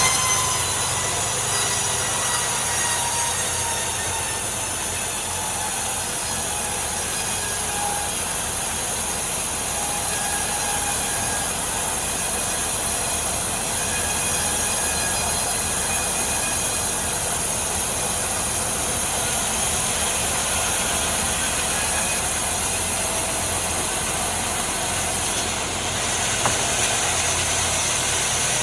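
Sawmill saw running steadily as it cuts through a large log, a continuous loud machine noise with a faint whine.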